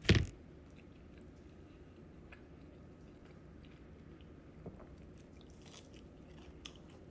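Close-miked chewing and biting of fried chicken strips, with faint scattered mouth clicks; a short loud sound right at the start is the loudest thing.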